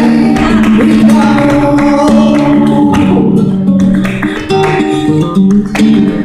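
Flamenco guitar playing: plucked notes and rasgueado-style strummed attacks over held tones.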